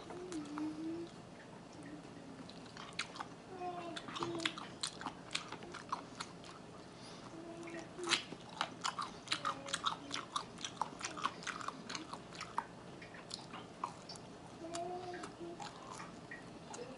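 Close-miked chewing and wet mouth clicks of a person eating chicken wings and breadsticks, with a few short closed-mouth hums. The clicking is densest through the middle.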